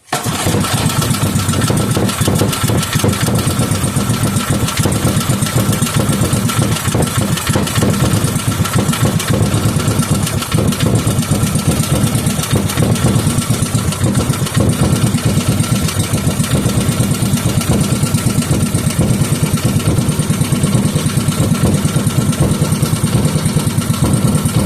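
A 5 hp Briggs & Stratton single-cylinder engine catches right at the start and then runs steadily with rapid, even firing. It is kept running on the choke because its idle is set too low.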